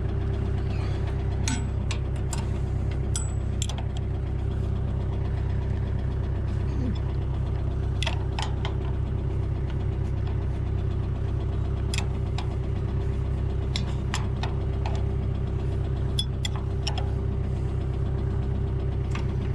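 Tractor engine running steadily while it drives a 2003 Amazone Groundkeeper flail collector over turf, set one turn lower. A low hum with a steady higher tone, broken by scattered sharp clicks.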